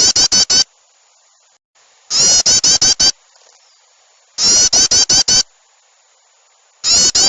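Looped bird-lure recording of agitated songbird calls, a mix meant to draw yellow-vented bulbuls and small birds. Loud, clipped bursts of six or seven rapid chattering notes, each burst about a second long, repeat about every two seconds.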